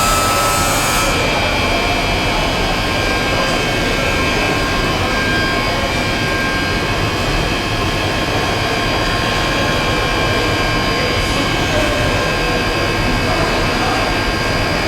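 Industrial plastic pelletizing line for PE and calcium carbonate compound running steadily: a loud, even machine noise carrying several steady whining tones. A high hiss stops about a second in.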